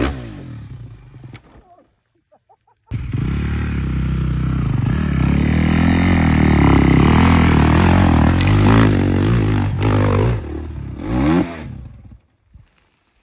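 Dirt bike engines revving hard, cut together from separate clips: one dies away in the first two seconds, then after a brief gap another runs loud, its pitch rising and falling again and again with throttle changes, before fading near the end.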